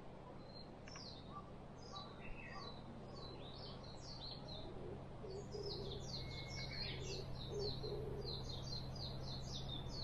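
A songbird calling: short, high falling notes, sparse at first and then crowding into a quick chattering run from about halfway through.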